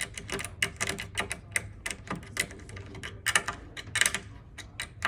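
Irregular sharp metal clicks and taps, several a second, of bed-frame hardware being handled and a bolt being fastened with a hex key.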